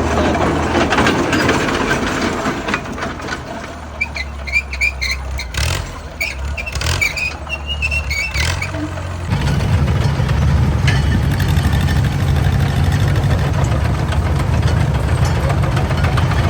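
Engine running steadily. About nine seconds in, a louder, deeper engine sound takes over.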